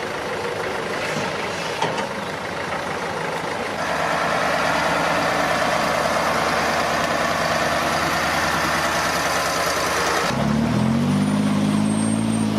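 Heavy truck engine running under load, with a change in its note about four seconds in; near the end the sound cuts to an engine revving up and back down.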